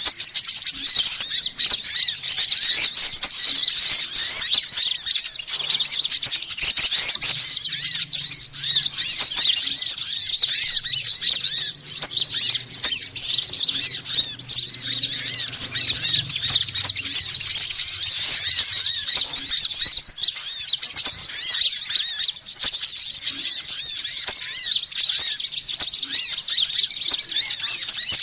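Dense, non-stop chorus of small songbirds chirping and trilling rapidly at a high pitch, as used in a lure recording to draw small birds to a lime-stick trap.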